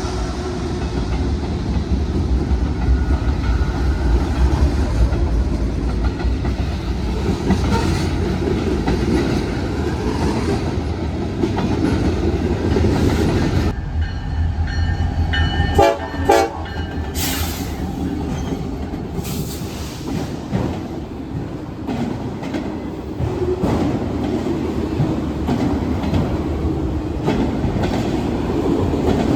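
Diesel-hauled trains passing close by: a steady low locomotive rumble with wheels clacking over the rail joints. The sound changes abruptly about halfway through, and a short horn sound comes soon after.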